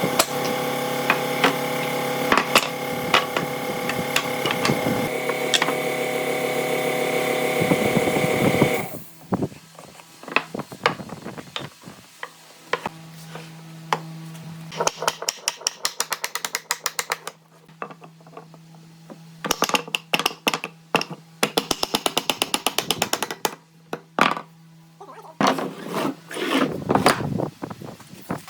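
A power tool running steadily with a pitched whine for about nine seconds, then stopping. After that come scattered clicks and knocks of workshop handling, with two runs of rapid, evenly spaced ticking.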